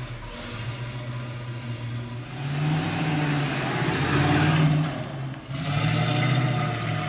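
1962 Chevrolet Corvette C1's 327 small-block V8 pulling away and accelerating past. The revs climb from about two seconds in, drop briefly a little after five seconds, then rise again.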